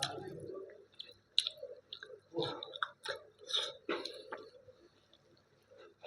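Close-miked chewing of a mouthful of dal and rice: wet smacks and lip and tongue clicks at an irregular pace, dying away about four and a half seconds in.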